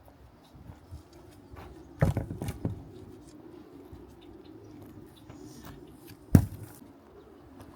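Handling noises: a quick run of knocks and taps about two seconds in, then a single sharp knock, the loudest sound, a little past six seconds, over a faint steady hum.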